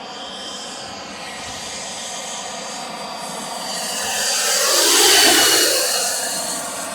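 JetCat PHT3 turbine RC helicopter making a fast pass: a high turbine whine over rotor noise swells to its loudest about five seconds in, then falls away as it goes past.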